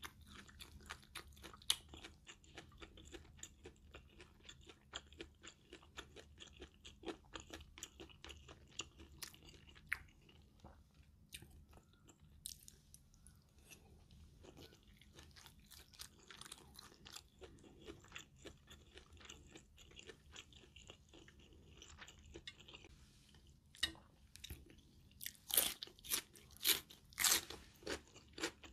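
Close-up chewing of stir-fried minced pork with Thai basil and rice: wet mouth clicks and soft crunching throughout. A run of louder sharp clicks comes near the end.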